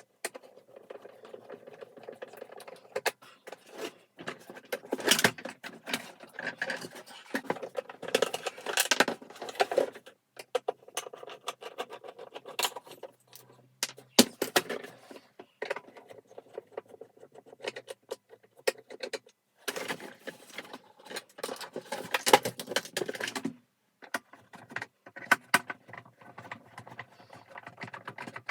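Irregular clicking, clinking and rattling of parts and tools being handled while a vacuum cleaner is taken apart and reassembled, with short pauses between bursts of work.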